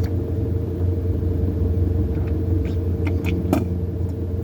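Steady low rumble with a constant droning hum, and a few faint clicks a little past the middle.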